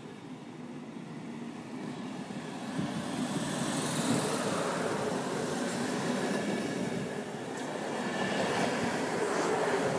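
Old Swedish electric commuter train pulling away along the track, a steady rolling rumble that grows louder about three seconds in and stays up, with faint high squeals near the end.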